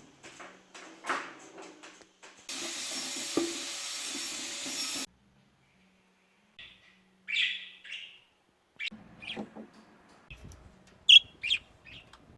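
Budgerigars chirping in short, sharp calls through the second half, the loudest near the end. Before that come light knocks and rustles, then a steady hiss lasting about two and a half seconds that starts and stops abruptly.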